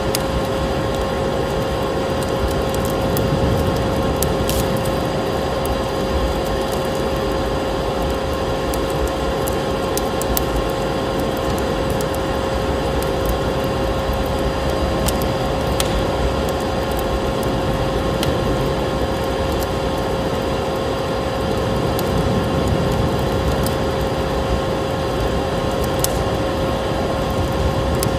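Vacuum cleaner running steadily, a constant motor whine over a dense rush of air, with scattered crackles of a wood fire.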